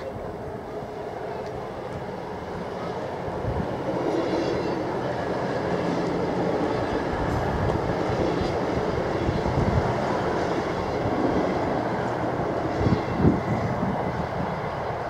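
Belgian NMBS/SNCB passenger train of two coupled multiple units passing over a level crossing. The steady rumble swells through the middle, and a few low wheel thumps come near the end.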